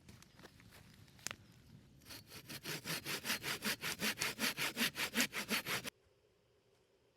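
Hand saw cutting wood in quick, even strokes, about five a second, growing louder and then stopping abruptly. A couple of light knocks come first.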